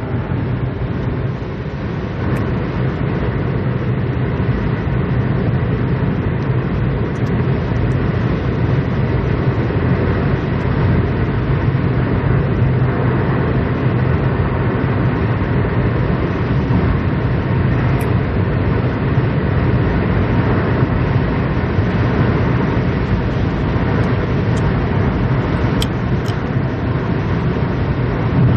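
Strong dust-storm wind buffeting a phone microphone: a loud, steady, low rumble.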